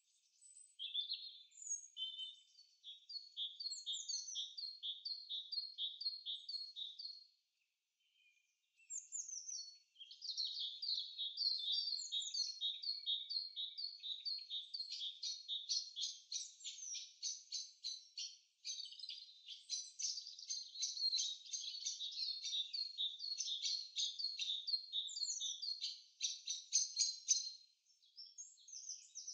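Birds singing: quick series of repeated, high, down-slurred notes, with a short pause about a third of the way in and then a denser run of overlapping notes.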